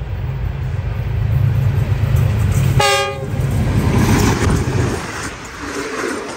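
American-built diesel-electric locomotive passing close by with its engine running as a steady low drone, sounding one short horn blast about three seconds in; then wheels clattering on the rails as the passenger coaches rush past.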